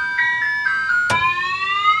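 Multi-sound novelty truck horn playing a tune of stepped notes, then, after a click about a second in, switching to a steadily rising siren-like tone.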